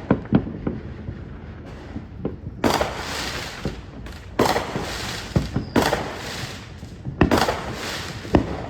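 Fireworks going off: a series of sharp bangs, four of them followed by about a second of crackling hiss.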